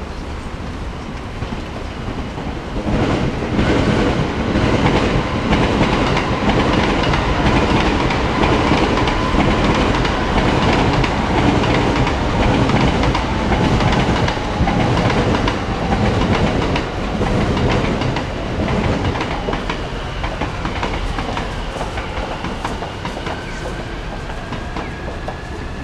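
A train passing. It grows louder about three seconds in and fades over the last several seconds, with a steady tone through the middle and a whine rising in pitch near the end.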